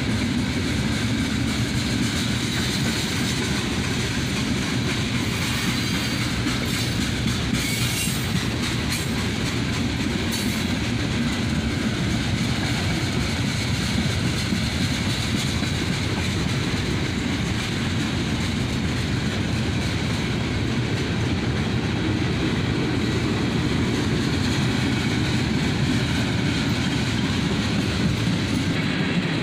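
Freight cars of a CSX manifest train, refrigerator cars then tank cars, rolling steadily past. Their steel wheels keep up an even rumble on the rails.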